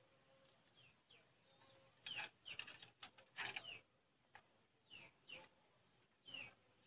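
Faint chirping of small birds: short calls that drop in pitch, in quick bunches about two and three and a half seconds in and again near the end, some with a scratchy edge.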